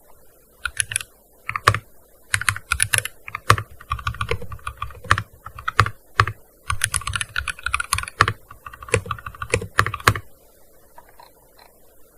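Typing on a gaming keyboard: quick runs of key clicks with short pauses between them, stopping about ten seconds in.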